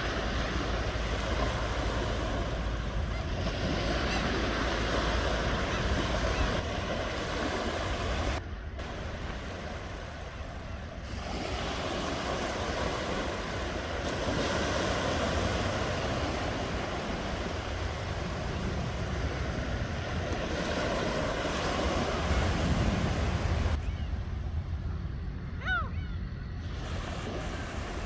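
Ocean waves breaking and washing ashore: a steady rushing surf that swells and eases, thinning out briefly twice. A short, high gliding call sounds once near the end.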